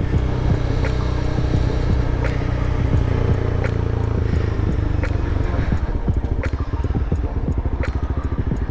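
Motorcycle engine running steadily at low revs, with a few sharp clicks.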